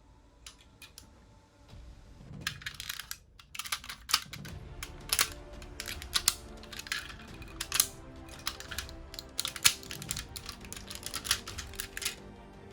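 Hard plastic toy parts clicking and snapping together in quick, irregular taps as a transforming robot toy is handled and assembled, over faint background music.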